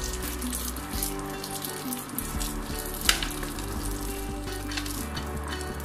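Cashews, almonds and raisins sizzling as they fry in ghee in a small pan while a spoon stirs them, with one sharp clink of the spoon on the pan about three seconds in.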